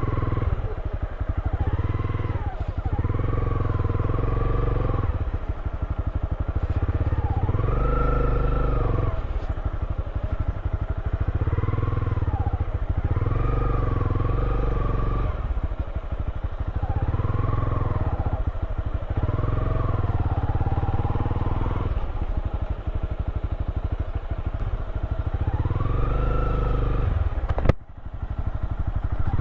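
Motorcycle engine running under way, its pitch rising and falling every couple of seconds as the throttle is opened and eased, over a heavy low rumble. The sound drops out briefly near the end.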